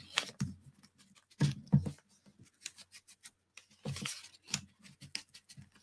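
Ink blending tool brushing and dabbing ink onto paper edges: short, irregular scratchy strokes in small clusters, with quiet gaps between them.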